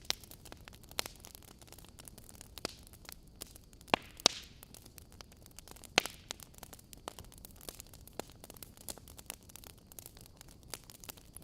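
Wood fire burning in a fireplace: logs crackling with irregular small pops over a soft hiss, a few louder pops about four and six seconds in.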